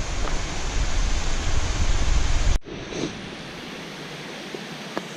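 Wind buffeting the microphone over the rush of falling water. About halfway through it cuts off suddenly to a quieter, steady rush of water from the Thornton Force waterfall.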